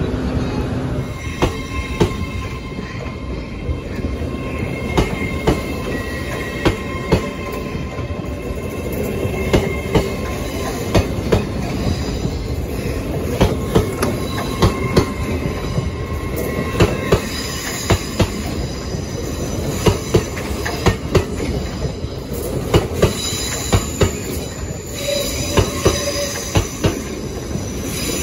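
LNER Azuma passenger train rolling slowly past along a station platform: the wheels clack irregularly over rail joints and points, with high-pitched wheel squeal over a steady rumble.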